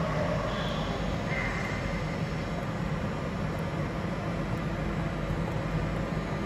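RER B electric multiple unit at an underground platform, a steady low hum running throughout, with two short high-pitched squeals in the first two seconds.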